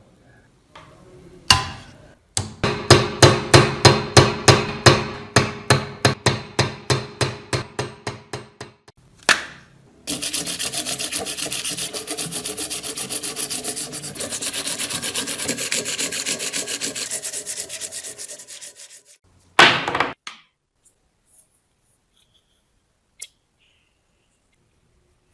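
Hand abrasive work on a rusty knife: a run of quick, even rubbing strokes, about four or five a second, that grow fainter over some six seconds. After a single knock comes a steady, faster rubbing for about nine seconds, then one short scrape.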